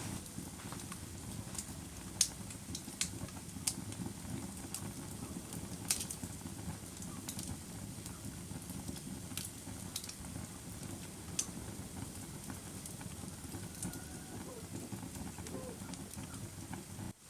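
Wood fire burning with a steady low rush and sharp crackles and pops, scattered irregularly a second or a few seconds apart.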